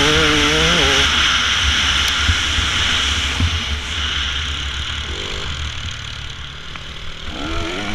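Dirt bike engines revving. A motor rises and drops in pitch in steps during the first second, then fades into steady engine and riding noise, and another bike revs up briefly near the end.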